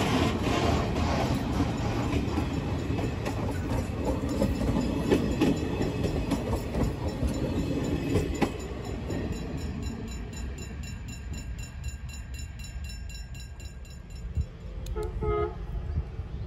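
Freight train of scrap wagons passing on the rails: loud rumbling and wheel knocks for the first half. It then fades to a quieter run of evenly spaced wheel clicks over rail joints. A short pitched toot comes near the end.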